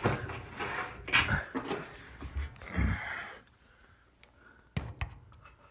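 Hands working a dryer drive belt onto the motor pulley and tensioner inside the dryer cabinet: rustling and scraping for about three seconds, with a few sharp knocks, two of them close together near the end.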